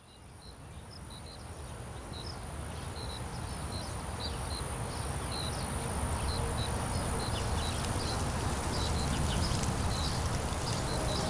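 Outdoor ambience fading in and growing louder: a low steady rumble, short chirping calls repeating irregularly, and a steady high-pitched whine.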